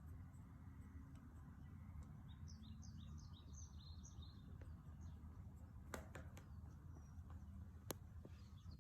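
Faint bird chirping: a quick run of short, high chirps about two to four seconds in, over a low steady hum. Two sharp clicks near the end.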